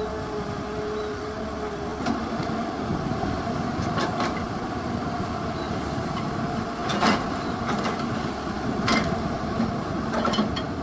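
Excavator working: its diesel engine runs steadily with a held whine, and sharp knocks or clanks come every couple of seconds, five in all.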